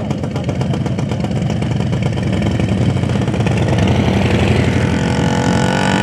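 A loud vehicle engine running with a rapid, even firing pulse, its revs climbing a little toward the middle and then holding.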